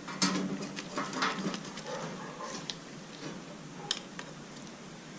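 Light clicks, taps and knocks of hand tools and metal parts being handled during motorcycle chain and sprocket work, with a sharp click about four seconds in.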